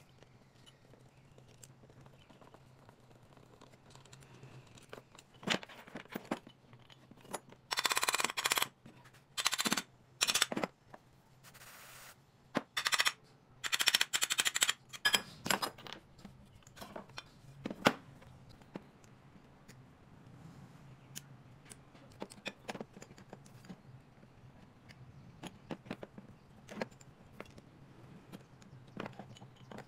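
A power tool run in several short bursts of rapid rattling, typical of fastening work on an engine, with scattered clicks and knocks of metal tools and parts between them and one sharp knock after the bursts. A faint steady low hum lies underneath.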